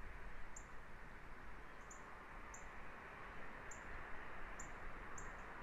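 A bird giving a series of short, high-pitched chirps, about one every half second, over a steady background hiss.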